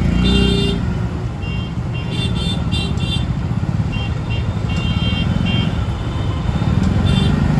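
Busy, congested city road traffic: engines running in a steady low rumble, with short horn honks going off again and again.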